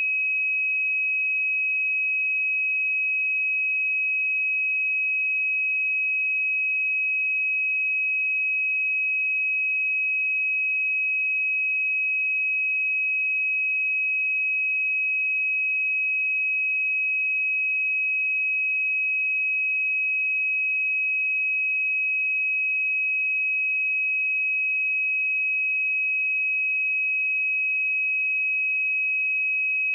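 A pure 2547 Hz sine-wave test tone, one steady high-pitched note held at constant level without change.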